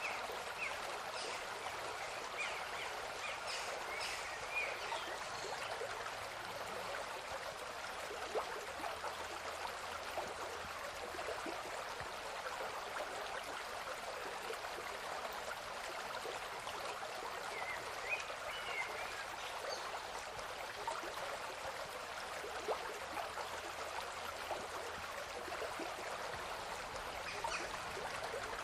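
A river or stream flowing steadily, with a few brief high bird chirps at the start, about two-thirds of the way through, and again near the end.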